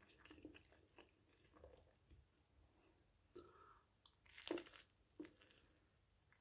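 Close-up chewing of toasted seeded bread with poultry sausage, quiet crisp crunches between mouthfuls, with one louder crunchy bite about four and a half seconds in.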